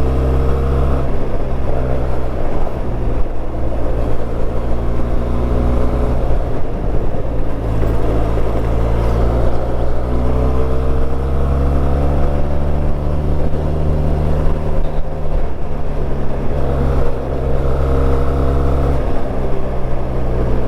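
Benelli TRK 502's parallel-twin engine running on the move, its note rising and falling slowly several times as the throttle and gears change.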